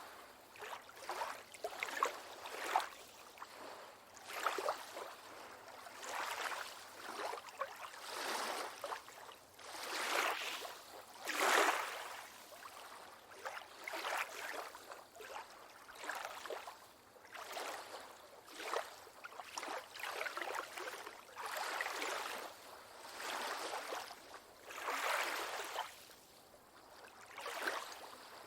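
Small waves washing and lapping in a steady series of swells, one about every two seconds, with a louder one about 11 to 12 seconds in.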